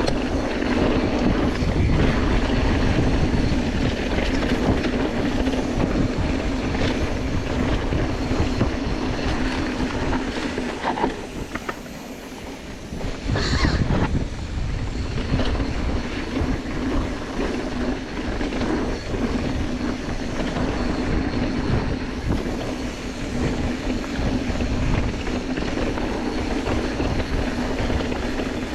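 Mountain bike descending a dirt trail: tyres rumbling over dirt and rocks, with the bike rattling and chattering and a steady buzz. The sound dips for a couple of seconds just before the middle, then comes back with a sharp clatter.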